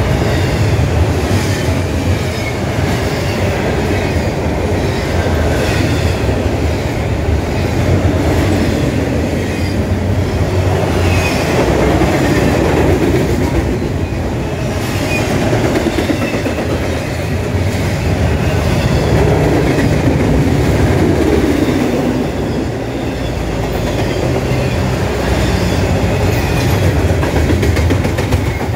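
Double-stack intermodal freight cars rolling past: a steady rumble of steel wheels on rail, with the clickety-clack of wheels crossing rail joints.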